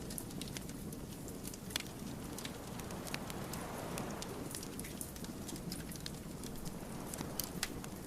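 Wood fire burning, with irregular sharp crackles and pops over a steady low noise of the flames.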